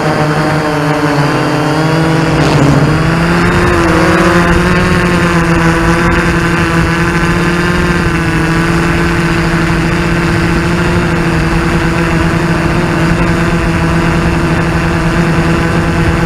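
Quadcopter drone's motors and propellers humming steadily, the pitch rising about two seconds in as the motors speed up, then holding level.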